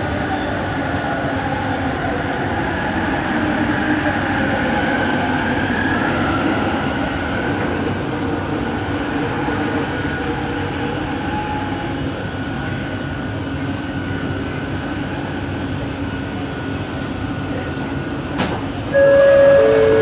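Bombardier Innovia ART 200 linear-motor train running, heard from inside the car: a steady rumble with whining motor tones that glide in pitch early on and then hold. Near the end, a click is followed by a loud two-note chime, the second note lower.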